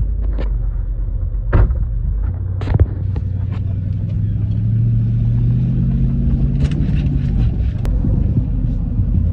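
Vehicle engine and exhaust running with a steady low rumble. Its pitch rises in the middle and eases back off, as under light acceleration. A couple of sharp knocks come early on.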